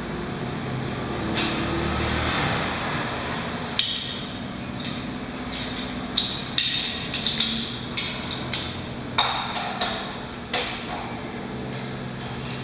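Steel tools clinking and knocking against metal engine parts while a diesel engine's rocker arms and cylinder heads are being taken off. About a dozen sharp metallic strikes, some ringing briefly, come irregularly from about four seconds in until near the end, over a steady workshop hum.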